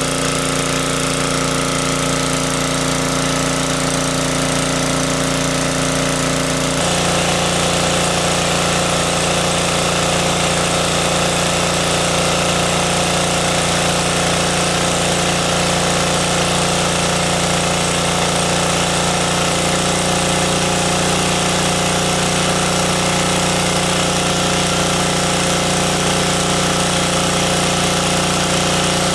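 An engine running steadily, its tone shifting abruptly about a quarter of the way in and again about two-thirds of the way through.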